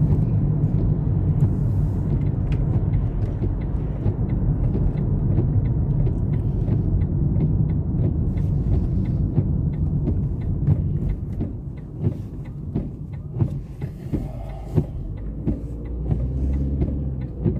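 Car engine and road noise heard from inside the cabin while driving: a steady low rumble that eases off about two-thirds of the way through, with light clicks and knocks over it.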